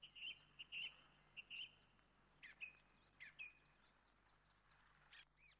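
Small birds chirping: short, quick tweets in bunches, over a faint steady low hum.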